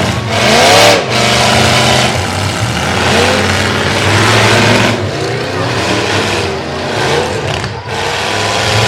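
Several demolition derby trucks' engines running together, revving up and down in bursts over a steady engine drone.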